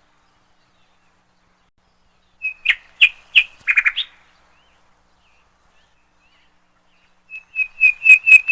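A bird chirping in two bursts of quick, high, repeated chirps, about two seconds apart, with silence between; the second burst builds near the end.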